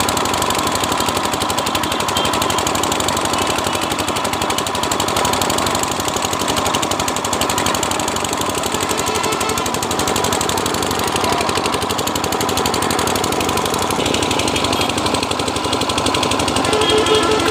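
A 12 hp engine running steadily, with a rapid, even knocking beat.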